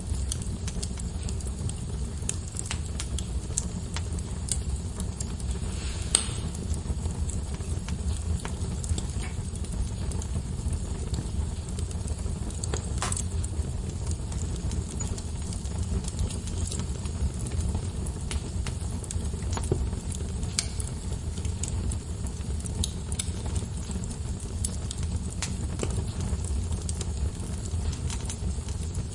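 Logs burning in a fireplace, crackling. A steady low rumble of flame sits under scattered small pops and snaps, with louder pops about six and thirteen seconds in.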